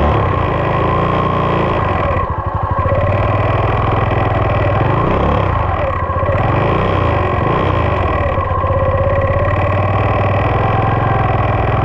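2020 SSR 189 dirt bike's single-cylinder four-stroke engine running steadily at low revs, with a steady high whine over it.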